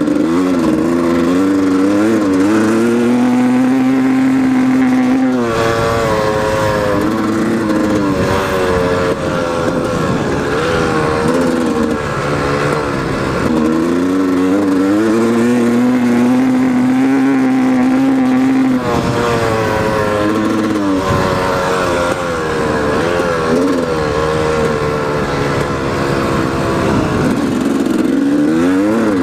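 1997 Yamaha YZ250 two-stroke engine, fitted with an FMF Fatty expansion-chamber pipe, revving up and holding high for a few seconds, dropping back, and climbing again several times. It is one of the weird noises the owner hears in first and second gear, which comes with a lack of low-end power.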